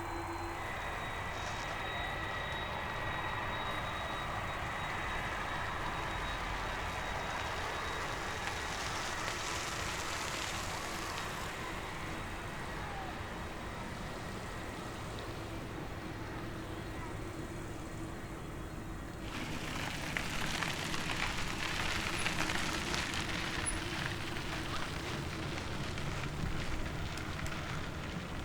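Jet airliner engines: a steady whine over a rushing noise, which grows louder and broader about two-thirds of the way through.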